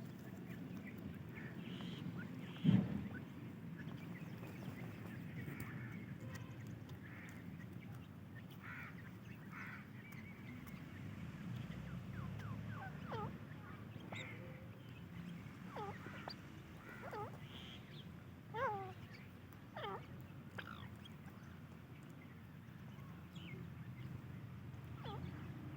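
Young francolin (teetar) chicks calling: a scatter of short, falling chirps, several in quick succession through the middle stretch, over a steady low rumble. A single sharp knock sounds about three seconds in.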